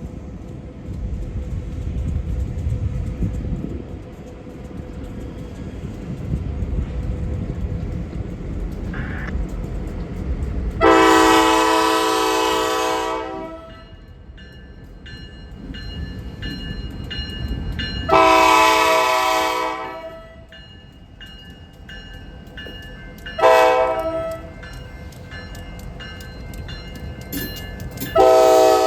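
Diesel locomotive horn sounding the grade-crossing signal (long, long, short, long) as a train approaches, over the rumble of the train. The first blast comes about eleven seconds in and the last long one begins near the end.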